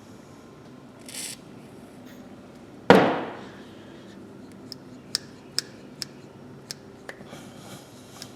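A short hiss about a second in, then one loud metal clank, then a run of sharp irregular clicks as a stiff, rusty pair of needle-nose pliers is worked open and shut to loosen the joint.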